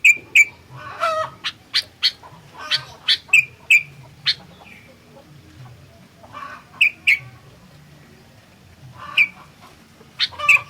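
Sooty-headed bulbul (kutilang) calling in bursts of short, sharp, chattering notes: a busy run over the first four seconds, then brief phrases separated by pauses of a second or two.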